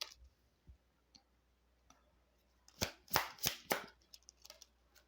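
Cards being handled and laid down on a table: about four sharp snaps close together, starting nearly three seconds in, then a few faint ticks.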